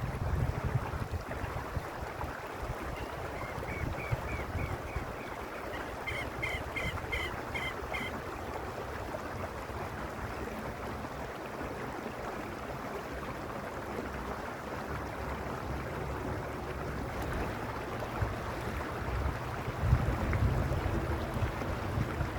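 Mountain creek water rushing and burbling steadily over stones. Wind buffets the microphone with low rumbles at the start and again near the end, and a series of short, high, repeated chirps sounds between about three and eight seconds in.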